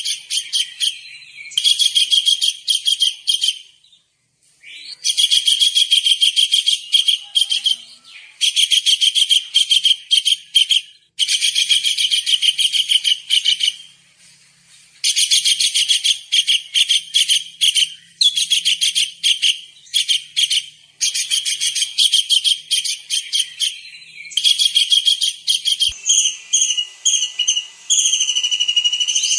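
Kingfisher (tengkek udang) calling in loud, high-pitched runs of rapid sharp notes, each run lasting a few seconds with short pauses between; near the end the notes turn into steadier whistles.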